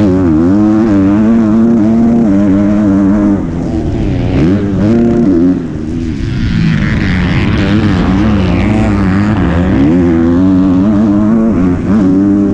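MX2 motocross bike engine revving hard, rising and falling in pitch over and over as the rider works the throttle and gears, heard from an onboard GoPro with wind noise. It drops off briefly about five and a half seconds in and again near the end.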